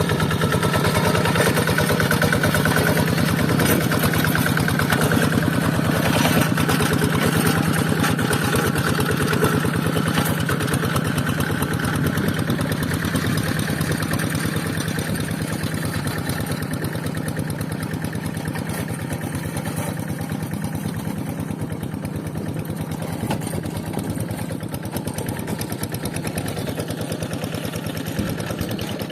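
Single-cylinder diesel engine of a Quick Zeva G3000 hand tractor with a Kubota engine, running steadily under load with a fast chugging beat. It grows somewhat quieter in the second half.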